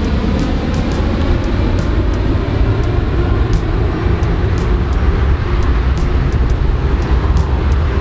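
Loud, steady rumble of aircraft engines, with no clear rise or fall in pitch.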